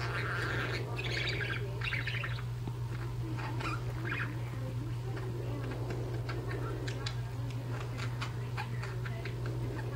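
Two budgerigars chirping and chattering: a run of warbling chirps in the first couple of seconds, then scattered short chirps and clicks, over a steady low hum.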